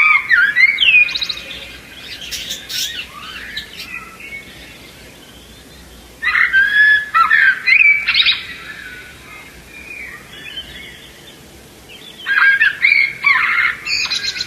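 Budgerigars chirping and chattering, in three loud bouts of quick chirps with softer twittering between them.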